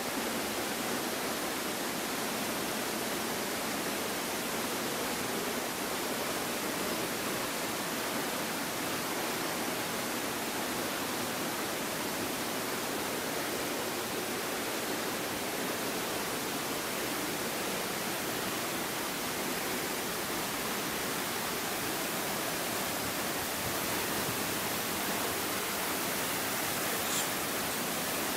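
Steady, even rush of falling water at the Río Celeste waterfall.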